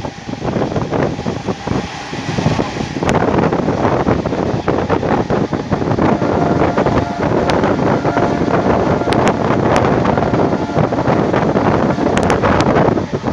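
Moving train with heavy wind buffeting the microphone over the steady rumble of wheels on track. A few sharp clicks come in the second half.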